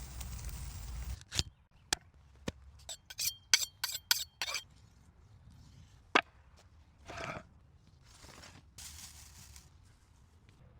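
Food-preparation handling: a quick run of sharp knocks and clicks, some ringing like metal or glass clinking, then another single knock and a few short scraping rustles.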